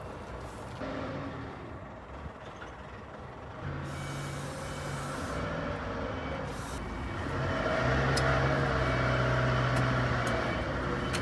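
Engine of a large road vehicle, such as a truck or bus, running nearby. It grows louder about seven and a half seconds in.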